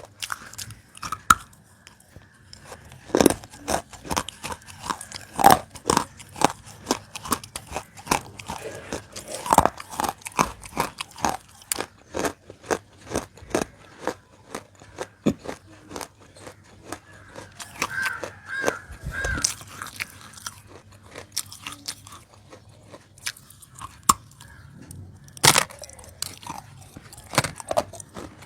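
Close-miked biting and chewing of crunchy roasted nakumatt, an edible clay: many irregular sharp crunches with softer chewing between them.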